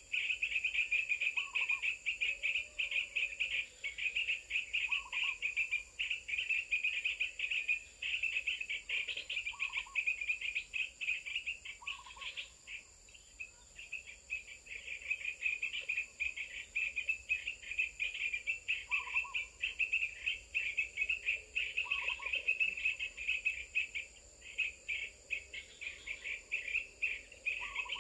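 Dense, fast high-pitched chirping and trilling of insects and birds, with a short lower call repeating every two to three seconds.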